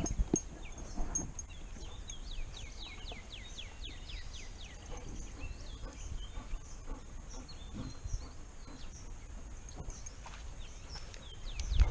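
A songbird singing a fast run of falling whistled notes, twice, over low thumps and rubbing from a camera mounted on a walking dog's harness, with a heavier knock at the start and again near the end.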